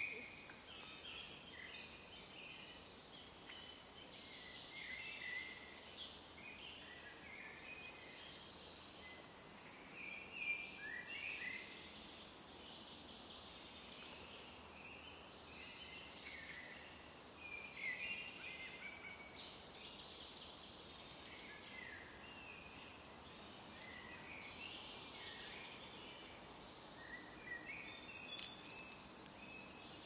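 Wild songbirds calling and chirping on and off, many short high chirps and brief trills scattered through, over a faint steady background hiss. A few sharp clicks come close together near the end.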